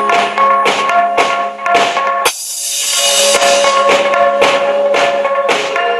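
Music with a drum kit and tambourine beating about twice a second under held melodic notes. The music drops out briefly a little over two seconds in.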